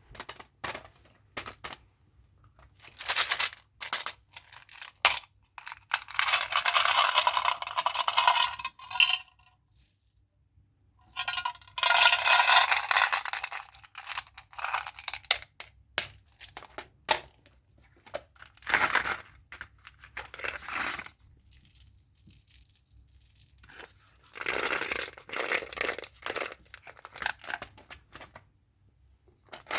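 Chewing gum packaging being handled and torn open: wrappers crinkling and tearing in several stretches of a couple of seconds each, with short clicks and taps between.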